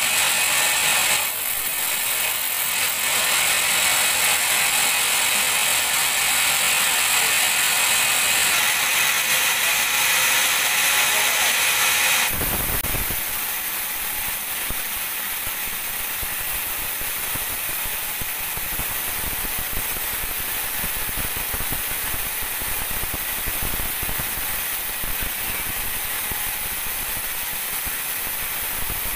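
Band sawmill blade cutting through a teak log, a loud steady hiss; about twelve seconds in the cut ends and the machine runs on more quietly.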